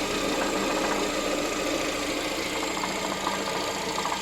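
Car engine idling steadily, with a light knocking rattle in it that the owner is trying to track down.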